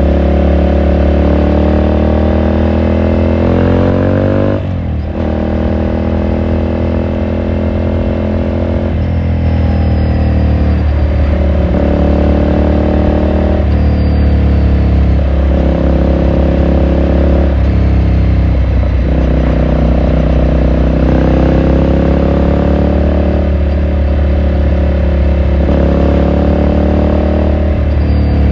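Ducati Scrambler Sixty2's air-cooled L-twin engine and exhaust heard onboard while riding. The engine note rises in pitch for the first few seconds and breaks off briefly about five seconds in, as in a gear change. It then runs on at a fairly even pitch that steps up and down every few seconds under a steady low rumble.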